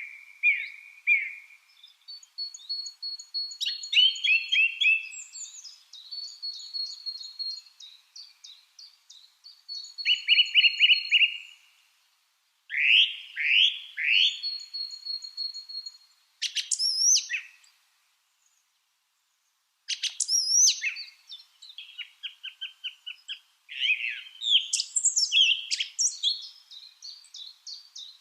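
Lovebirds chirping and calling: quick trains of shrill repeated chirps mixed with sharp high calls, broken by a pause of about two seconds a little past the middle.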